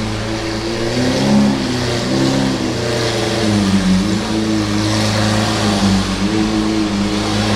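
Lamborghini Aventador's V12 idling through a Capristo cat-less exhaust, with the pitch lifting briefly a few times under light throttle blips.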